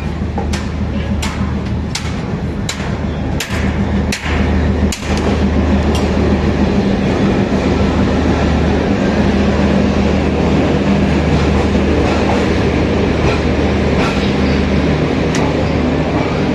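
Passenger express train running at speed on the rails. In the first six seconds there is a run of sharp wheel clacks over rail joints, a little under one a second, before it settles into a steady rolling rumble.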